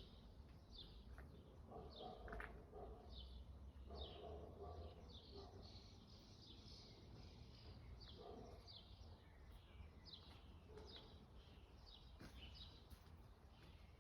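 Faint birdsong: a bird repeating short, falling chirps about twice a second, with a few lower calls mixed in and a low steady rumble underneath.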